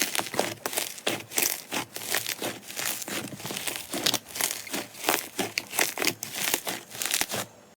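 Slime being squeezed and pressed close to the microphone, giving a dense, irregular crackling of many small pops and clicks. It stops abruptly near the end.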